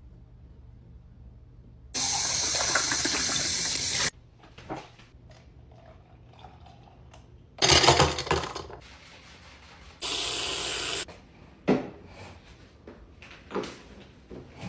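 Water running from a tap in two steady bursts that start and stop abruptly, with a louder splashing rush between them and a few short knocks of handling.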